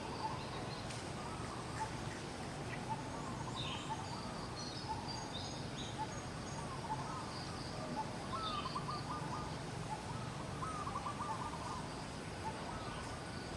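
Scattered short chirping calls over a steady background hiss, with two trilled calls about eight and ten and a half seconds in, and some thin high notes above them.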